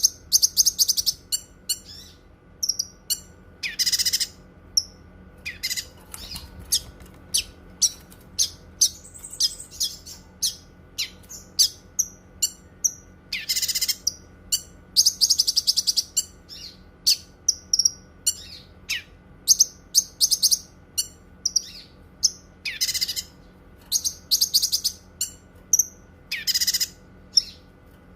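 Cucak kinoi singing: a fast string of short high chirps, broken every few seconds by a louder, rapid trilled phrase lasting about a second.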